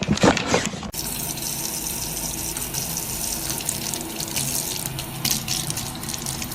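Water running steadily from a tap. It starts about a second in, after a brief burst of louder sound.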